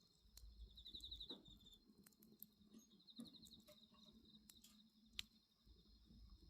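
Faint crackling and popping of a wood bonfire, with crickets chirring steadily behind it and a pulsed cricket trill about a second in and again near three seconds. A sharper pop stands out about five seconds in.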